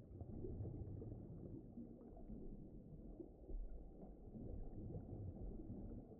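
Low, muffled deep-water ambient rumble with no clear pitch, swelling and easing gently in level.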